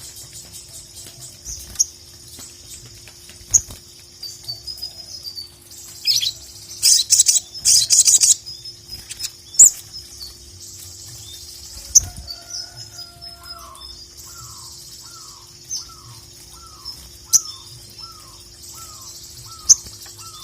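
Sogon (sogok ontong, ruby-throated bulbul) song with sharp high chirps and a burst of loud chattering a third of the way through. In the second half a lower short falling note repeats about once a second.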